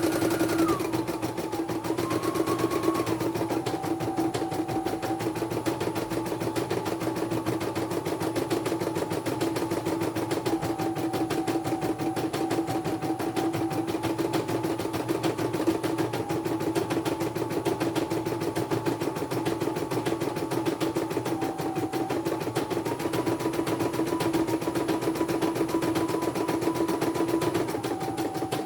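Computerised embroidery machine stitching: a rapid, steady needle clatter under a motor whine that steps up and down between speeds several times.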